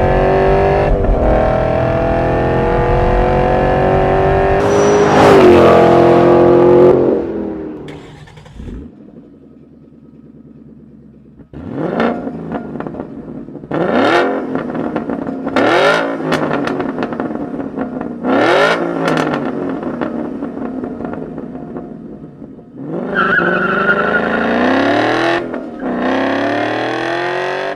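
Ford Mustang GT's 5.0-litre V8 through a Borla S-Type exhaust, making a long hard pull that climbs steadily in pitch, cut off sharply about seven seconds in. After a quieter lull come a string of sharp revs, each rising and dropping quickly, then another sustained pull near the end.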